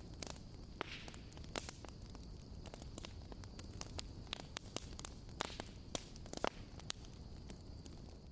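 Wood fire crackling: irregular snaps and pops over a low, steady rush.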